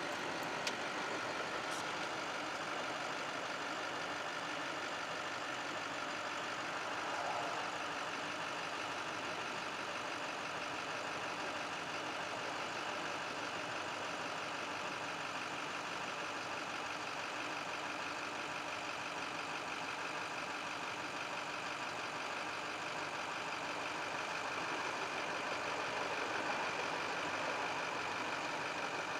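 Freight train of covered grain hopper cars rolling past on steel rails: a steady mechanical noise with faint high, steady tones, and two short clicks near the start.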